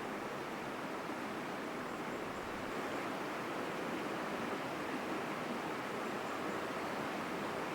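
Mountain stream rushing strongly over rocks: a steady, even rush of water with no breaks.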